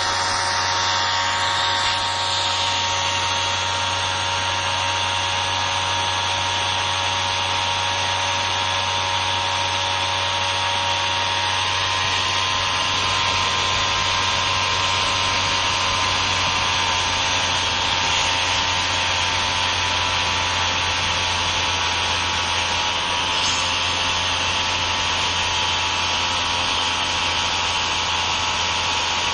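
Salvaged Bosch 120 A car alternator converted into a brushless motor, spinning steadily under a hobby RC speed controller. It makes a steady whine over a rushing fan noise, and the pitch sags slightly about halfway through.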